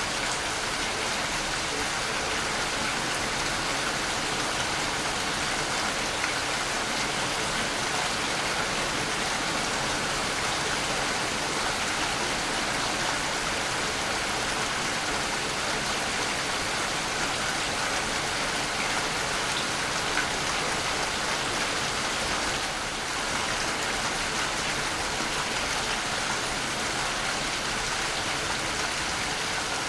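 Waterfall: falling water making an even, unbroken rush with no pauses or changes.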